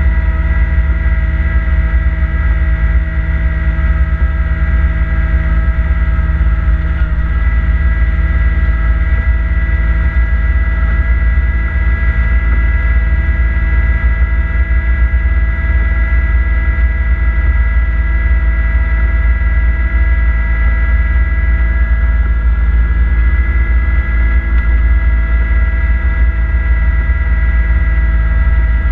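Kubota B2650 compact tractor's three-cylinder diesel engine running steadily, driving its front-mounted snowblower. It is a constant heavy rumble with a steady whine over it, holding even throughout.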